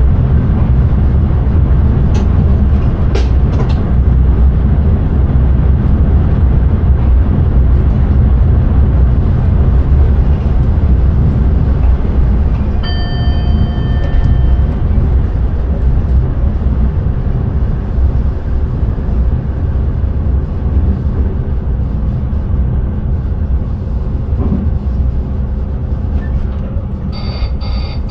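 Intercity train running along the line, heard from the driver's cab: a steady low rumble of wheels on rails that eases slightly in the second half. About halfway through, a short electronic tone sounds for roughly two seconds.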